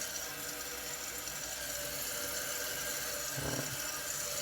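2012 Kohler Cimarron toilet tank refilling, with water running steadily through the fill valve.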